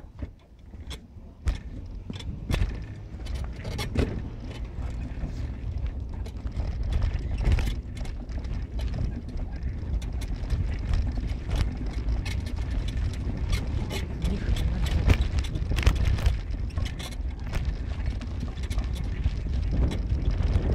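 A vehicle moving over a bumpy surface: a steady low rumble with frequent knocks and rattles.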